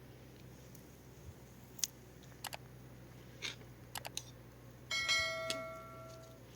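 A few light clicks and knocks, then a metal object struck once, ringing with several tones that fade over about a second and a half.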